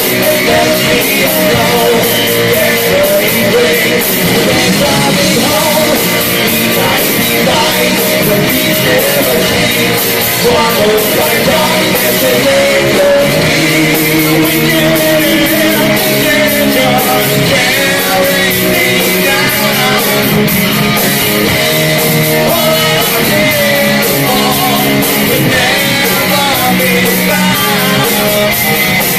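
Live heavy metal band playing loud and steady: distorted electric guitars and drums, with vocals.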